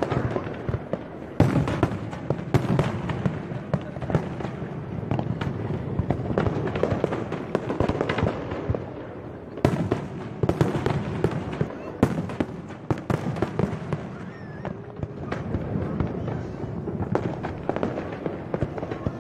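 Aerial fireworks display: an irregular barrage of bangs and crackling bursts over a continuous rumble, with a few louder single reports standing out.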